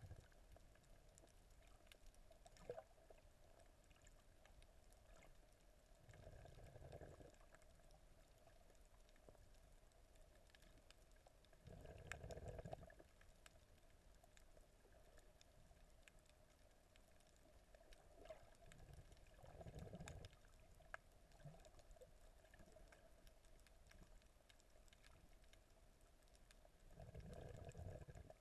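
Muffled underwater sound, heard faintly: a low whooshing surge of water about every seven seconds, over a faint steady hum and scattered small clicks.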